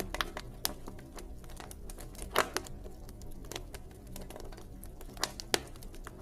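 Wood campfire crackling: irregular snaps and pops, the loudest about two and a half seconds in and again near the end, over a low steady rumble.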